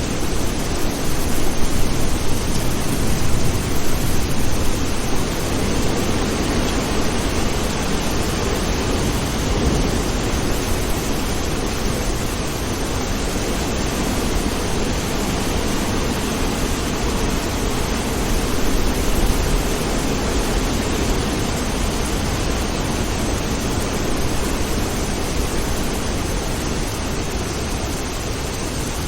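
Steady rain with a low thunder rumble underneath, a little louder in the first few seconds.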